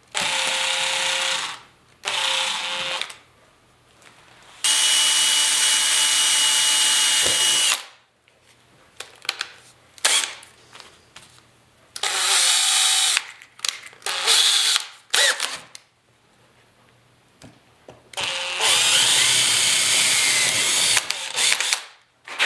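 Electric drill with a 9/64-inch bit drilling holes, running in six separate bursts of one to three seconds with short pauses between them. A few clicks sound in the pauses.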